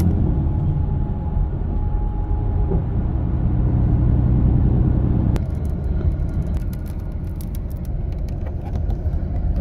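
Intercity coach in motion: a steady low rumble of engine and road noise. About halfway in the sound changes abruptly, turning a little quieter with scattered light clicks or rattles.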